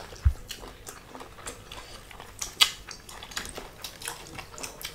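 People chewing food, with many small sharp clicks of mouth and teeth; one louder click comes about two and a half seconds in, and a low knock just after the start.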